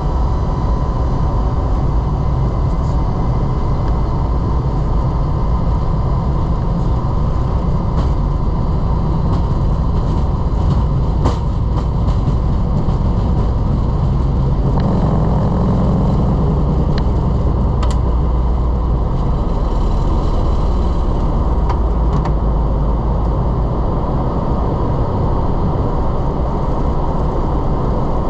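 Boeing 767-300 jet engines running at takeoff power, a steady loud roar with deep rumble and a faint steady whine, broken by a few sharp clicks or rattles. The low rumble swells for a couple of seconds about halfway through.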